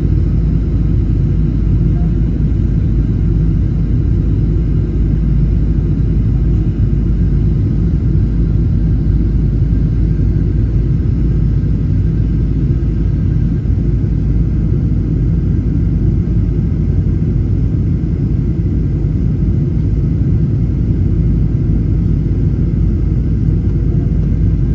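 Steady low rumble of a Boeing 737-800's cabin in flight, the CFM56 engines and airflow running evenly with a few faint steady tones above the rumble.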